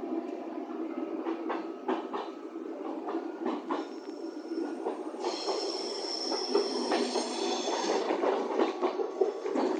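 Commuter train running on the rails, heard from inside the carriage: a steady rumble with irregular clicks and knocks from the wheels. About five seconds in a high-pitched squeal sets in for roughly three seconds, then stops.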